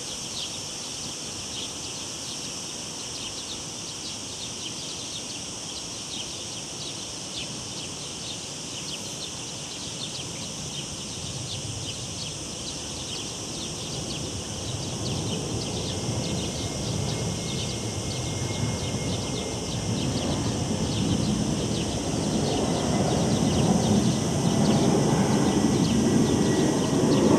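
Cicadas buzzing steadily in a high, rapidly pulsing chorus. From about halfway through, the low rumble of a passing airplane grows steadily louder toward the end.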